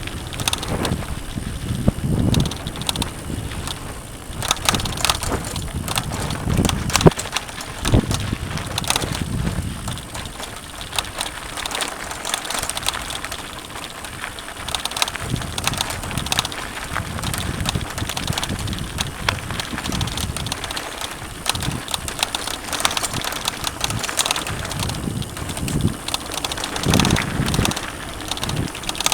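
Mountain bike ridden over a rough dirt trail: tyres crunching on dirt and gravel, with frequent rattles and knocks from the bike over bumps and wind noise on the microphone.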